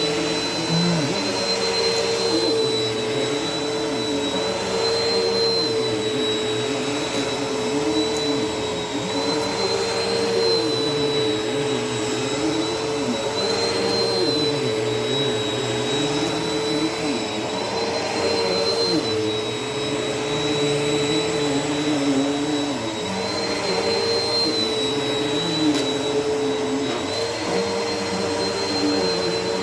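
Vacuum cleaner running steadily while vacuuming a carpet, its motor whine dipping slightly in pitch every few seconds.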